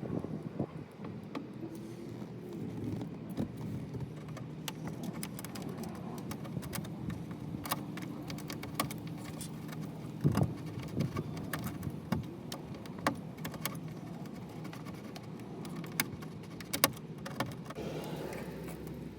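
Light clicks, taps and scrapes of a hot soldering tool working the glovebox's plastic tabs, over a steady low hum, with a sharper knock about ten seconds in.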